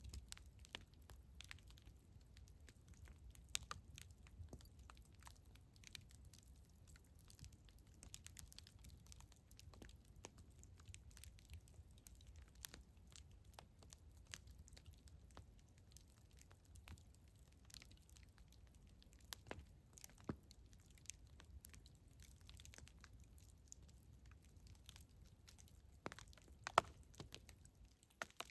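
Campfire crackling faintly: scattered sharp pops and snaps of burning wood over a low rumble, with a few louder pops near the end.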